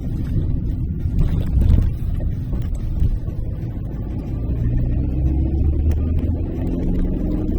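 Car interior noise while driving: a steady low rumble of road and engine, with the engine's hum showing more distinctly in the second half.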